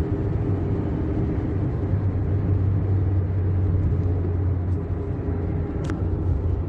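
Steady low rumble of a moving car, its engine and road noise heard from inside the cabin.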